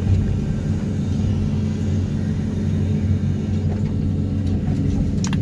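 Excavator engine running steadily with a low, even hum while the machine works a vibro hammer pulling sheet piles.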